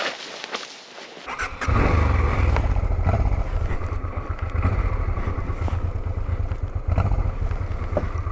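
Honda Transalp 650's V-twin engine starting about a second and a half in, then running steadily with a deep rumble.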